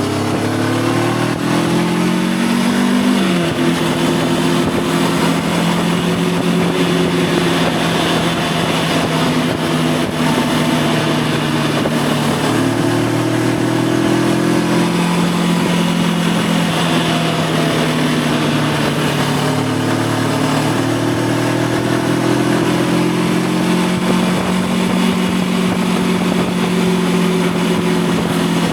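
2025 Voge 525 DSX's parallel-twin engine under way, its note climbing and then dropping sharply about three seconds in at an upshift, then rising and falling with the throttle while cruising. Wind and road rush runs under it.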